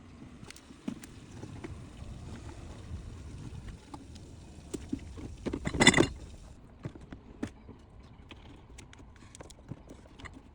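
Scattered clicks, knocks and light rattles of car interior parts being handled and fitted by hand during reassembly of a BMW 523d's blower area, with one louder scraping clatter about half a second long near the middle.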